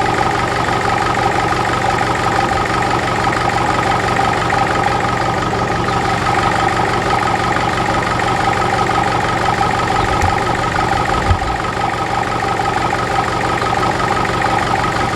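Ferguson TEF-20 tractor's four-cylinder diesel engine ticking over steadily at idle, left running to charge a low battery.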